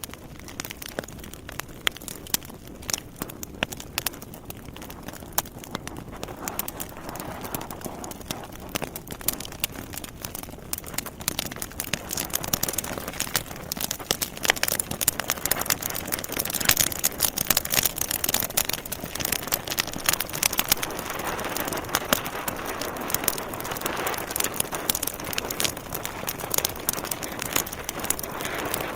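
Wood logs burning in a fireplace, crackling and popping in quick, irregular snaps over a steady rush of flame, getting louder over the first dozen seconds.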